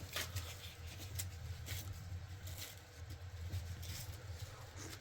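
Faint, scattered small clicks and rustles of someone eating and handling food, over a steady low hum.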